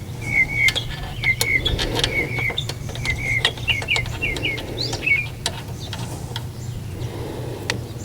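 A small bird chirping in repeated short double notes through the first five seconds, over scattered clicks and light knocks of hand-tool work on the generator engine and a steady low hum.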